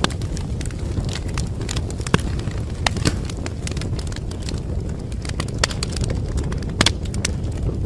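Wood fire burning in a fireplace: a steady low rumble of flames with sharp, irregular crackles and pops from the burning wood.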